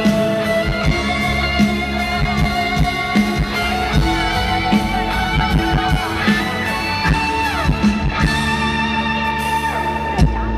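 A live pop-rock band playing an instrumental break with no vocals, led by guitar over steady bass and drums, with a few bent notes partway through.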